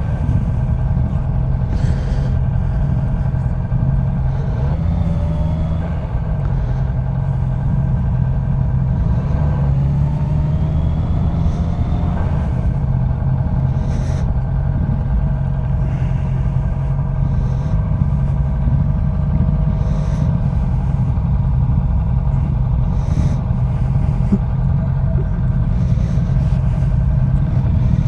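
Motorcycle engine running at low speed with a steady low rumble, its pitch rising briefly about five seconds in and again around ten to twelve seconds in.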